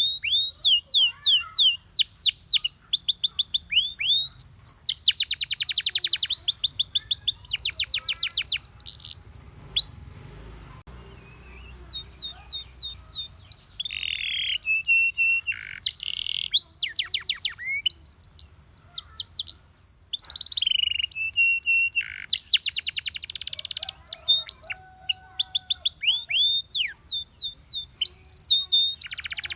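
Canary singing: fast trills of rapidly repeated downward-sweeping notes, with a few held whistled notes in the middle and a brief pause about ten seconds in.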